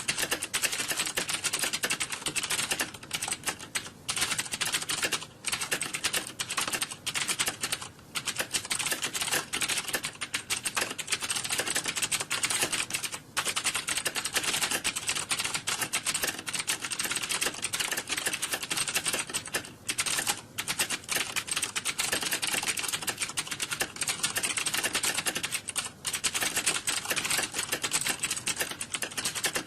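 Computer keyboard typing: a fast, continuous clatter of keystrokes with only a few brief pauses.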